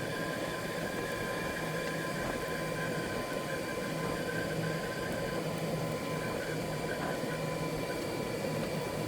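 Golf cart driving along: a steady low hum with a thin, even whine over a constant rush of road and wind noise.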